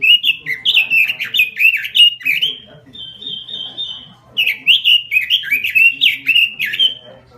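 Red-billed leiothrix (Pekin robin) singing loud, rapid warbling phrases, broken about halfway by a short run of quick repeated high notes, then warbling again.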